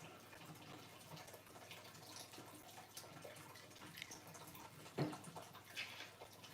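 Faint scattered clicks and taps of parts being handled, with one sharper knock about five seconds in.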